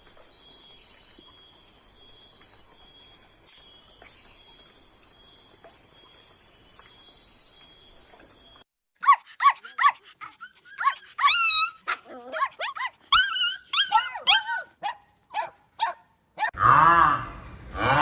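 A steady high-pitched buzz for about the first half, then a puppy yelping and barking in a run of short, sharp, high calls.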